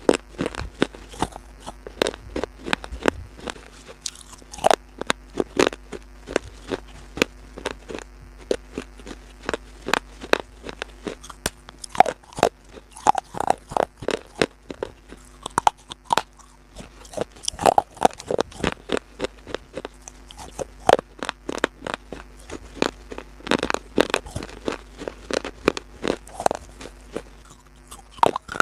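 Close-up crunching of crisp food being bitten and chewed, a rapid irregular run of sharp cracks several times a second, over a faint steady hum.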